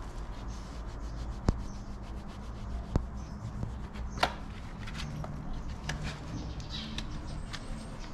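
Farrier's tools working a horse's hoof: a run of short scraping strokes, with three sharp clicks in the first half.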